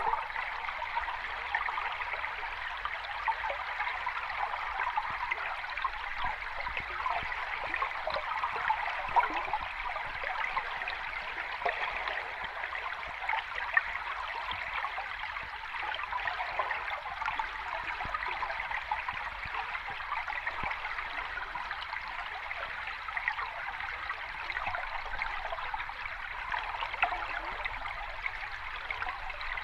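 Running water splashing and trickling at a steady level, a continuous babble of small splashes with no surging waves.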